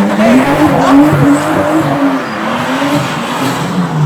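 Nissan Skyline GT-R R34's engine revving loudly. Its pitch climbs, then rises and falls several times as the throttle is worked.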